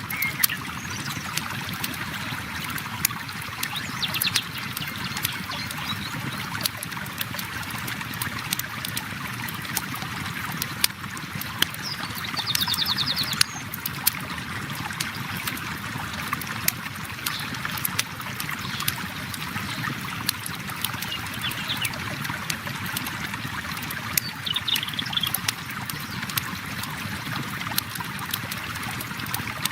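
River water flowing steadily, with a campfire crackling in frequent sharp pops and snaps over it.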